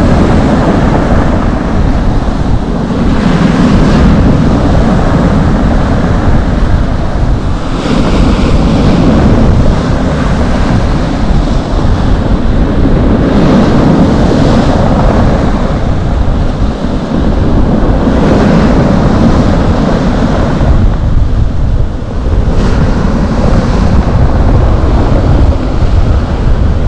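Storm surf on the Black Sea shore, waves breaking and washing in one after another, swelling every four or five seconds. Gale-force wind rumbles steadily on the microphone.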